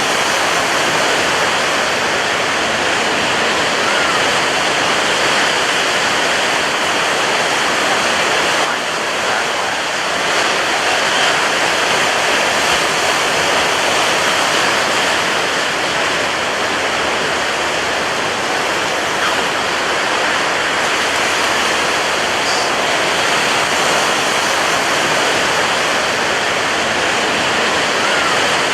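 Ocean surf breaking on a beach, a steady heavy wash of noise that eases briefly about nine seconds in.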